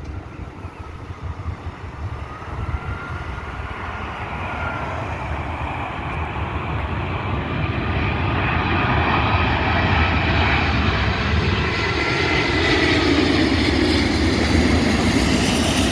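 Airbus A380's jet engines on approach, growing steadily louder: several whining tones that slowly drift in pitch over a low rumble.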